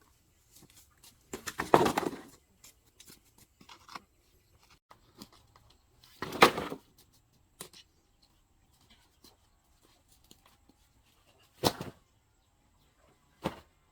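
Four separate knocks and scrapes of handling or work noise: two longer, louder ones about two and six seconds in, then two short sharp ones near the end.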